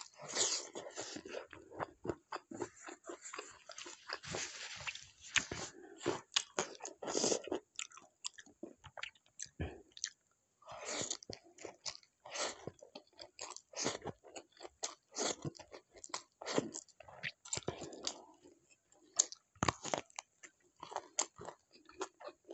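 A person chewing and biting food close to the microphone: an irregular run of short clicks and crunches, with brief pauses between mouthfuls.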